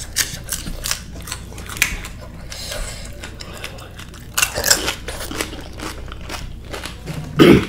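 Chewing and crunching of pani puri, the crisp fried puri shells and green chillies, in many quick crackly bites. There is a louder burst near the end.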